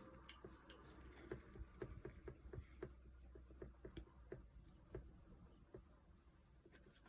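Near silence broken by faint, irregular light taps, about three a second, of paint or tissue being dabbed onto watercolour paper; the tapping stops about a second before the end.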